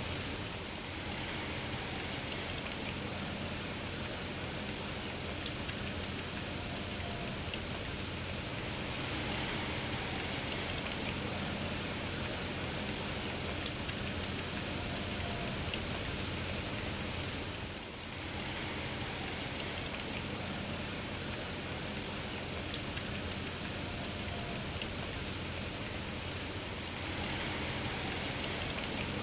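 Steady rain falling, an even hiss, with three sharp single taps of drops about eight seconds apart.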